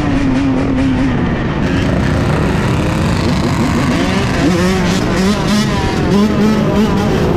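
A large pack of dirt bikes running and revving together, several engines rising and falling in pitch over one another.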